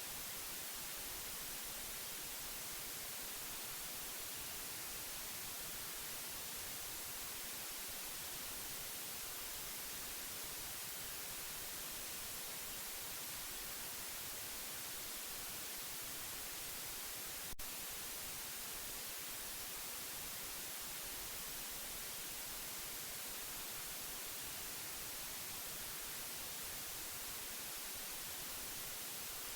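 Steady white noise, an even, unchanging bright hiss played as a baby-sleep sound. A single brief click comes a little past halfway.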